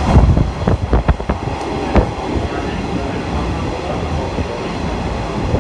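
Train running on rails, heard from an open-air trolley car: a steady rumble with a few sharp wheel knocks in the first two seconds.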